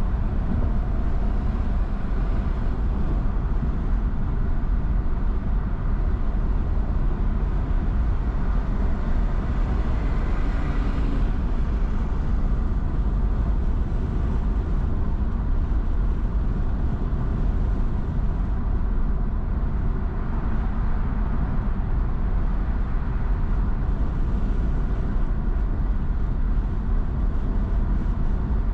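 Steady road and engine noise of a car driving, a low rumble with tyre hiss, with a brief louder swell about ten seconds in.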